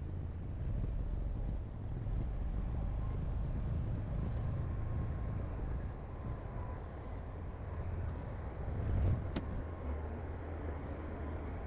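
Heavy diesel construction machinery running steadily with a low rumble and a faint whine. A single sharp click about nine seconds in.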